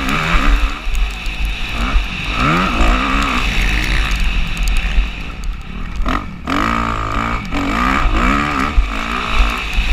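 Motocross bike engine revving hard, its pitch climbing and falling again and again as the throttle is opened and shut. Around six seconds in, the throttle snaps shut briefly before the engine climbs again. A constant low rumble sits under the engine.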